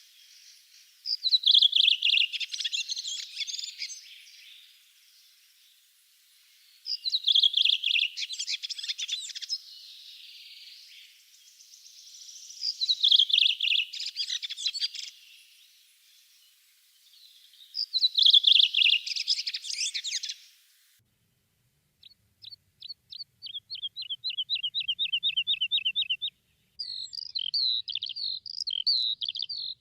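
Songbirds of a spring forest: one bird sings the same short, loud song phrase four times, about five seconds apart. After an abrupt cut, a rapid trill of evenly spaced notes follows, then a different bird's quick chirping song near the end.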